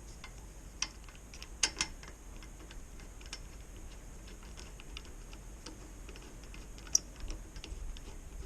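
Scattered light clicks and taps at irregular intervals, a few sharper ones about two seconds in and near seven seconds, from tools and parts being handled while the mini bike's handlebars are fitted.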